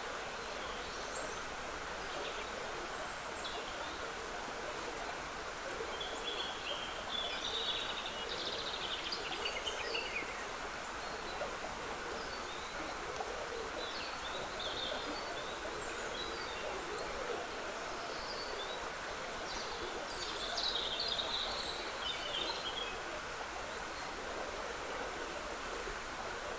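Woodland stream trickling steadily, with songbirds singing short, high phrases over it, most strongly about 7 to 10 seconds in and again about 20 to 23 seconds in.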